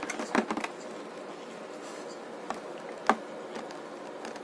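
Over-ear headphones being handled: a quick run of light clicks and taps at the start and two single clicks later on, over a steady faint room hum.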